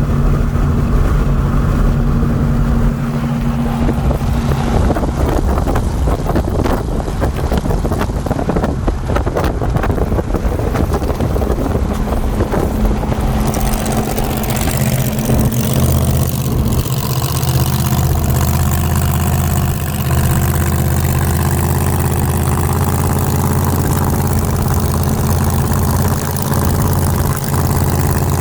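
Car engine running at a steady speed, a low even drone; about halfway through a hiss of wind or road noise comes up over it.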